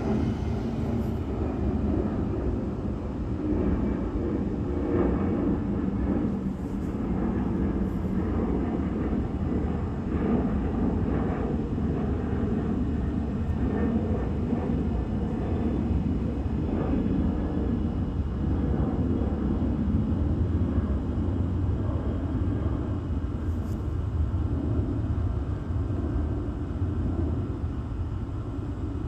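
Boeing 767-300F freighter's twin General Electric CF6-80C2 turbofans at climb thrust during climbout: a loud, steady, deep rumble with a crackling texture.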